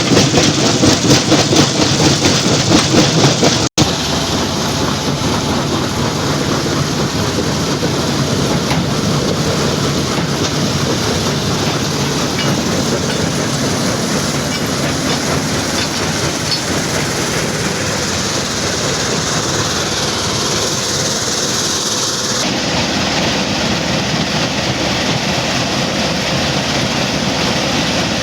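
Stone crusher plant machinery running: a loud, continuous clattering din of rock being crushed and conveyed. A fast rhythmic pulsing in the first few seconds breaks off with a brief dropout, then a steadier clatter follows.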